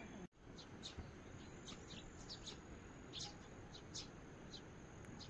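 Small birds giving scattered short chirps over a steady, even hiss, with a faint high steady whine joining about two seconds in.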